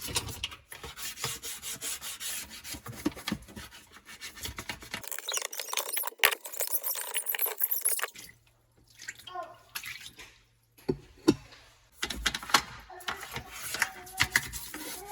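Kitchen work in several short cuts: clattering and clinking of dishes and utensils, with water running for a few seconds around the middle.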